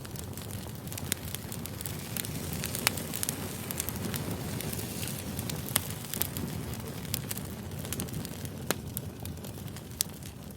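Campfire burning: a steady low rumble with frequent sharp crackles and pops of the burning wood, fading down near the end.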